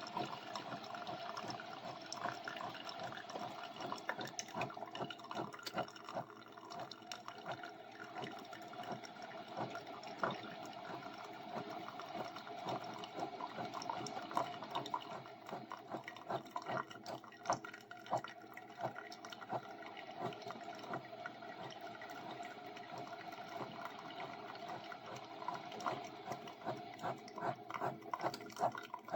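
Single-serve coffee maker brewing: a steady hum runs under coffee streaming and gurgling into the cup, with many small irregular crackles and drips.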